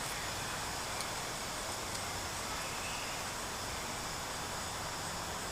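Steady outdoor background noise, an even hiss with a few faint ticks about one and two seconds in.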